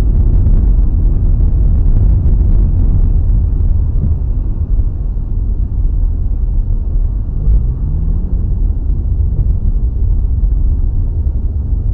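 Loud, steady low rumble of a moving vehicle, with an engine note rising in pitch about seven seconds in.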